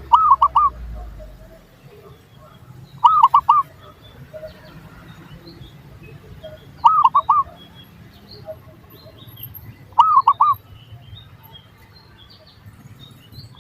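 Zebra dove (perkutut) cooing: four short phrases, each of three or four quick arched notes, repeated about every three to four seconds. Faint chirps of other small birds sound in between.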